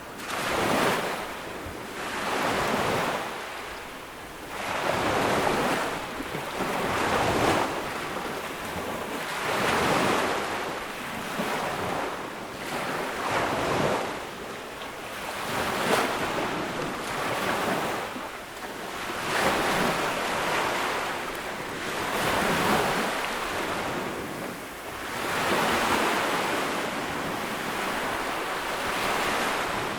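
Small ocean waves breaking and washing up on a sandy beach, each wave swelling and fading every two to three seconds.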